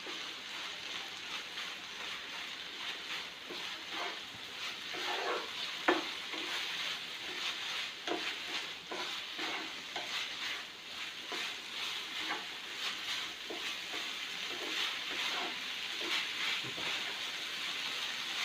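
Chicken masala filling with stock in it sizzling in a pan over a high flame, stirred with short scrapes against the pan every second or so. One sharper knock comes about six seconds in. The liquid is being boiled off.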